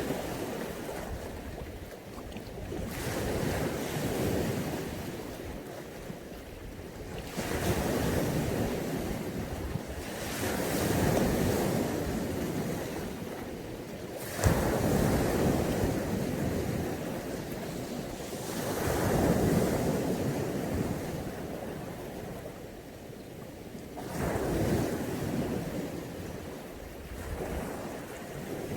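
Mediterranean sea waves breaking and washing up the shore in surges every few seconds. One wave comes in with a sharper crash about halfway through.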